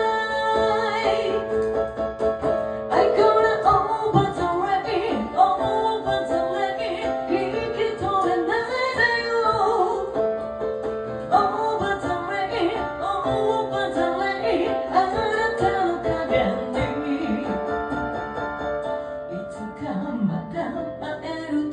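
A woman singing a song in Japanese, accompanied by piano.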